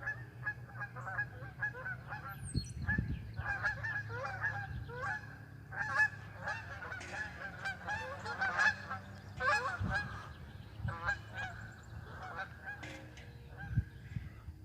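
A flock of geese honking as they fly overhead, with many short calls overlapping throughout.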